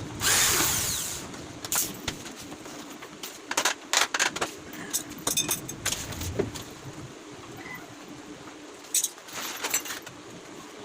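Power drill running in a burst of about a second at the start, followed by a run of sharp clicks and knocks around the middle and a few more near the end, as parts of a wooden flight case are worked.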